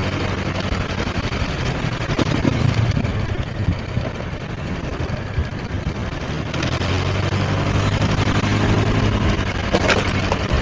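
Motorbike engine running steadily while riding in heavy scooter traffic, a low hum over road and traffic noise that grows a little louder about halfway through.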